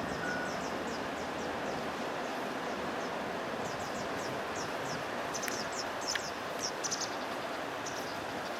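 Small birds chirping in short, repeated bursts over a steady outdoor hiss, with a short beep just after the start.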